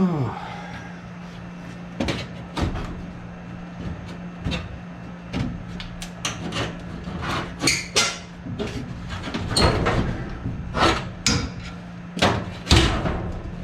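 Sheet metal clanking and rattling in irregular knocks as the old air-conditioning evaporator coil's casing is worked loose, over a steady low hum.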